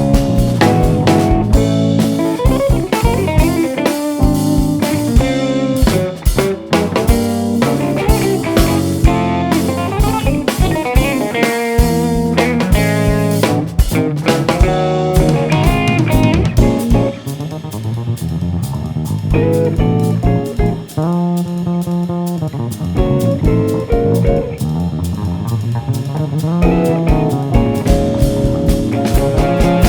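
Live band playing jazz fusion: guitar leading over bass and a drum kit.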